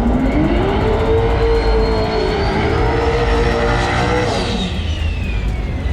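Turbocharged truck engine revved up and held, with a high turbo whistle over the engine note. About four seconds in it is let off, the engine note drops and the whistle falls away as the turbo spools down.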